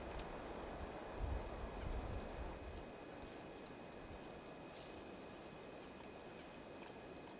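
Small songbirds calling: short, high chirps scattered through, several at a time. Low rumbling thumps in the first few seconds.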